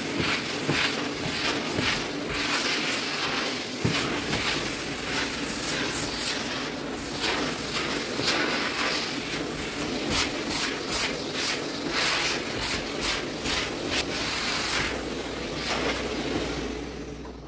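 Household cleaning noise: a steady hum with frequent clattering knocks and clicks all through.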